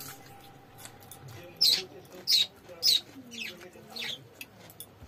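Close-up crunchy chewing: about five sharp crunches, roughly half a second apart, as raw vegetable and fried fish are bitten and chewed.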